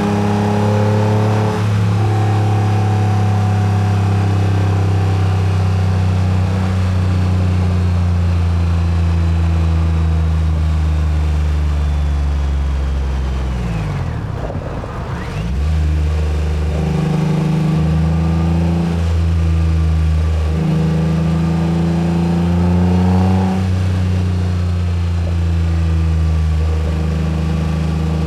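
Acura NSX V6 engine on the move. A steady cruise with a quick shift early on gives way to revs that fall slowly as the car slows for about ten seconds, dropping to a low near-idle around the middle. It then pulls away with revs rising through several quick gear changes and settles into a steady cruise near the end.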